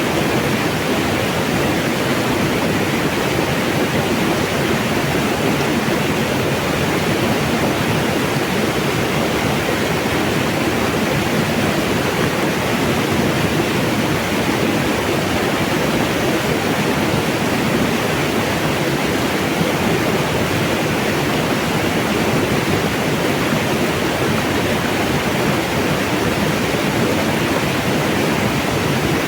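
Mountain water flowing and rushing in a steady, even stream, with no breaks or changes.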